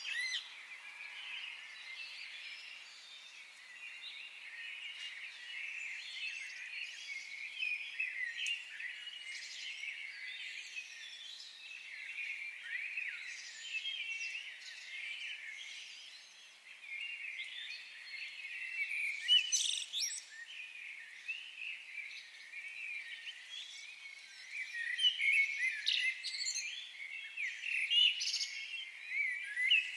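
A dense chorus of many small songbirds chirping and warbling over one another, with no pause. Louder, sharper calls stand out about two-thirds of the way through and again near the end.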